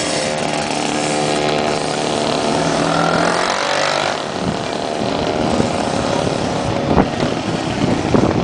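Motorcycle engines running as the bikes ride past one after another. One engine holds a steady note for the first few seconds, then gives way to rougher, uneven engine noise with scattered sharp pops.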